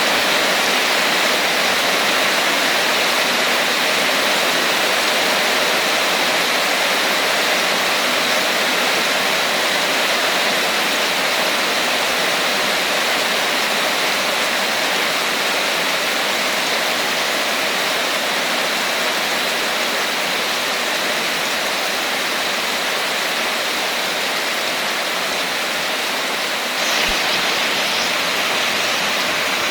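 Steady, continuous rainfall, a dense even hiss of falling rain, which turns a little louder near the end.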